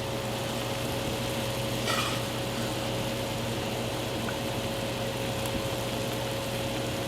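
Pot of kare-kare broth boiling on the stove, a steady bubbling hiss over a constant low hum, with a brief clink about two seconds in.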